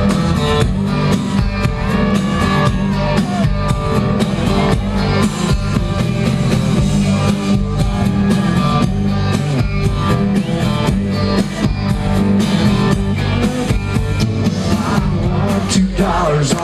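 Live country band playing an instrumental intro with drum kit and guitar over a steady beat.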